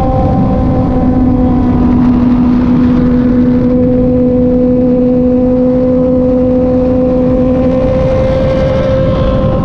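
Kove 450RR motorcycle engine pulling at a steady cruise, its pitch holding nearly level and creeping up slightly, over a heavy rush of wind and road noise.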